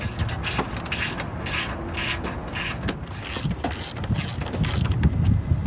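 Hand tools and parts being worked on the front end of a car as it is taken apart: a run of irregular mechanical clicks and rattles, like a ratchet wrench and loose metal and plastic pieces, over a low rumble that gets louder near the end.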